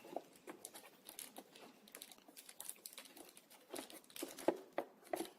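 Plastic packaging crinkling and rustling in irregular bursts as small accessories are handled and unwrapped.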